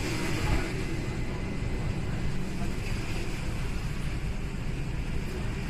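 Steady low rumble and hum inside a Toyohashi Railway streetcar, with no distinct clanks or bells.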